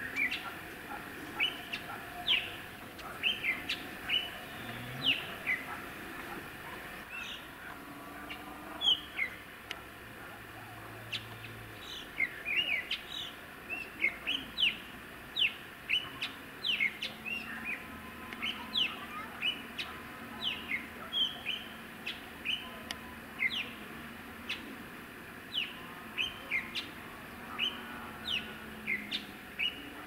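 Small forest birds chirping: a steady series of short, sharp calls that drop in pitch, one or two a second, coming more often in the second half.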